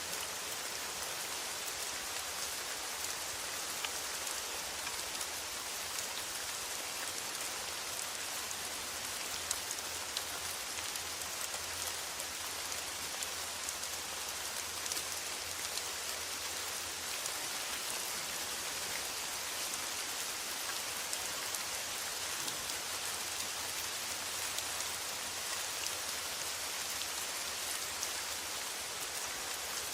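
Steady rain falling on a metal roof: a continuous hiss with a dense patter of individual drops.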